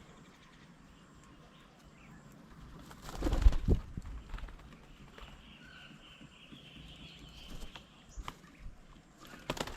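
Wings of birds flapping close by, loudest once about three seconds in and again near the end, over quiet outdoor background.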